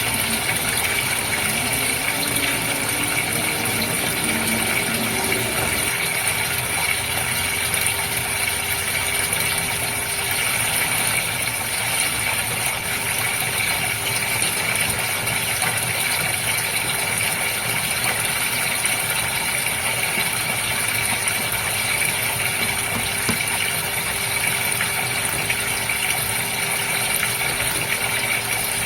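Aquarium water pump or filter running with a steady hum, over the constant splash and trickle of circulating water.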